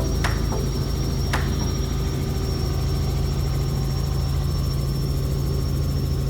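Tour helicopter in flight: a steady low drone with a thin, high, steady whine above it. Two sharp clicks come in the first second and a half.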